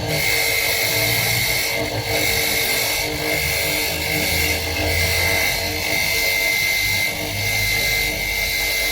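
A workshop machine runs steadily with a high whine over a hiss, easing off briefly a few times.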